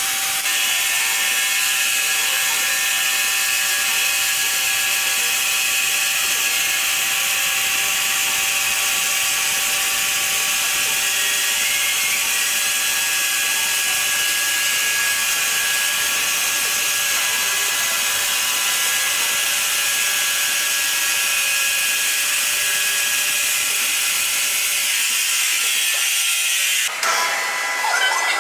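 Sawmill saw cutting through timber: a steady high whine over a rasping noise, which breaks off abruptly near the end.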